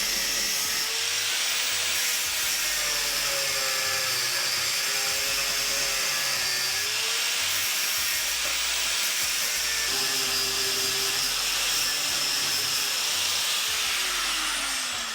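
Handheld power tool running hard under load with a strong hiss, its motor pitch wavering as it bites, then falling as the motor winds down near the end.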